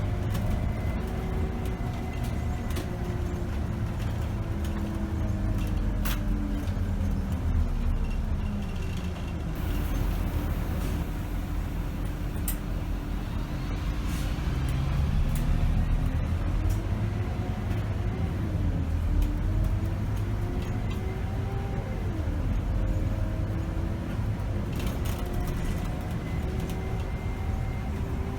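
Scania K270 city bus diesel engine and driveline heard from the driver's seat: the engine note falls as the bus slows, a short air hiss comes about ten seconds in, then the note climbs as the bus pulls away, dipping at gear changes. Sharp rattles and clicks from the cabin come and go throughout.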